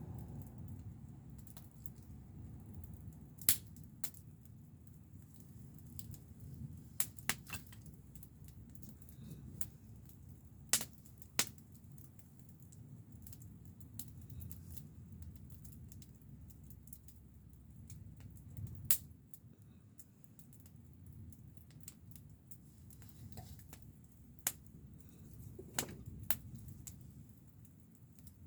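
Wood campfire crackling, with irregular sharp pops over a low steady rush.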